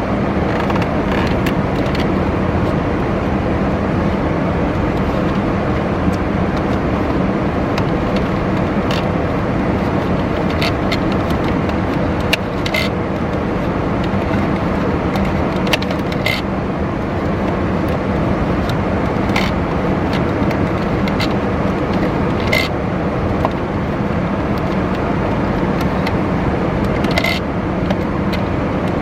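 Loud, steady mechanical running noise with a constant low hum and scattered light clicks.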